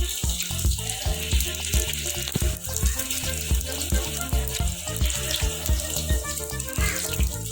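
Pempek frying in hot oil, a steady sizzle, under background music with a regular bass beat.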